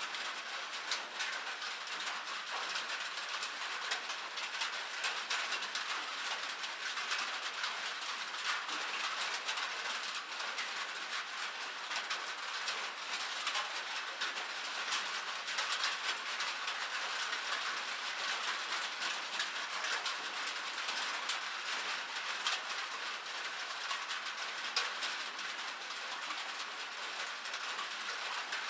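Steady rain, a dense patter of countless small drops ticking on a hard surface with no pause or change.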